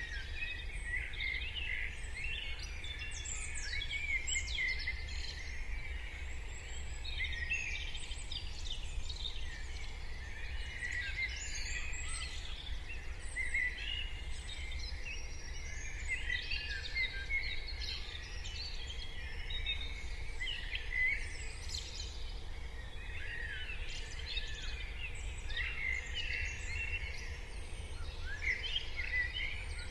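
Morning chorus of many small birds, with dense overlapping chirps, trills and short whistled calls that never pause, over a steady low rumble.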